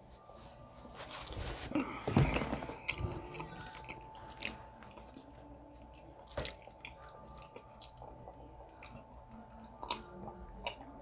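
Close-up eating sounds: chewing and mouth smacks, with a paper napkin rustling against the face in the first few seconds and sips from a glass near the end.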